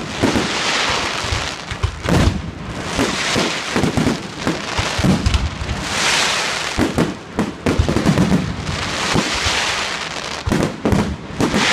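Fireworks going off: a rapid, uneven run of bangs and pops, with several spells of crackling hiss lasting a second or so each.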